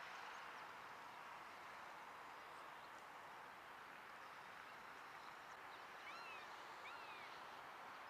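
Faint steady outdoor background hiss, with a wild bird giving two short arched chirps near the end.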